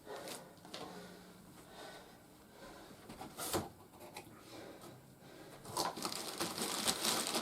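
Toy packaging being handled as parts come out of the box: sparse knocks and rustles, one sharper knock midway, building into denser plastic crinkling near the end.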